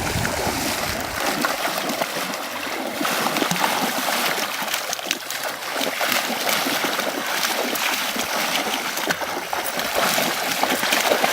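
Shallow water splashing and sloshing: many small, uneven splashes over a steady wash of water.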